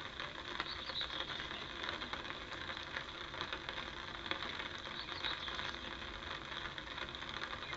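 Light rain pattering steadily on a fishing umbrella and the pond surface: a continuous hiss peppered with small drop ticks.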